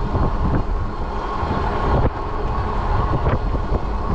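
Wind buffeting the microphone over the rolling noise of a fat-tire electric bike in motion, with a steady whine.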